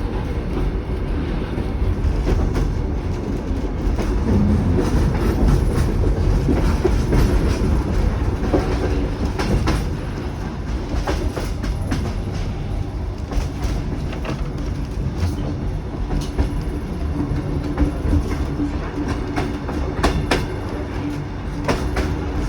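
Narrow-gauge passenger train running along the track: a steady rumble with scattered clicks and knocks from the wheels over the rails.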